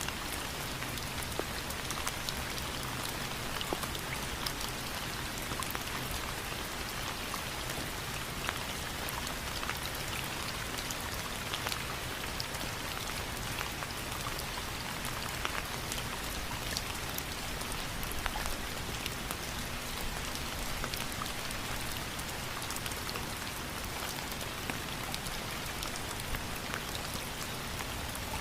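Steady rain falling, an even hiss peppered with the ticks of single drops hitting a surface.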